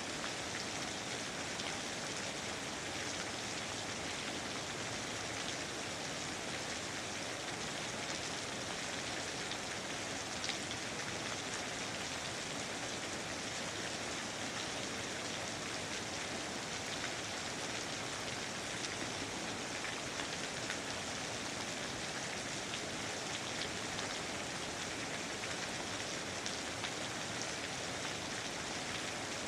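Steady rain falling: an even hiss with fine, close-spaced drop ticks, unchanging in level.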